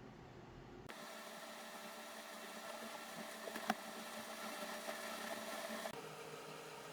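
A faint, steady mechanical hum holding several fixed pitches, with a single light tap a little past the middle.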